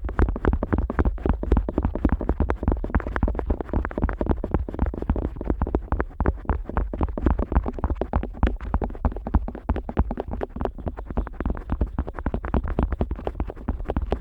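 Otoscope tip rubbing and tapping against the rubber outer ear of a Neumann KU100 dummy-head microphone, heard from inside the ear: a rapid, continuous run of dull, muffled scrapes and thuds.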